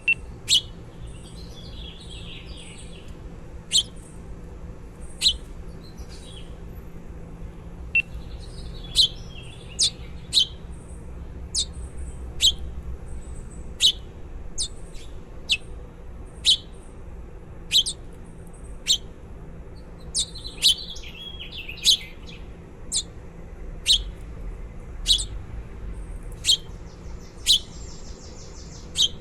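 Baby birds chirping: short, sharp, high chirps about once a second at an uneven pace, with brief spells of softer twittering between them.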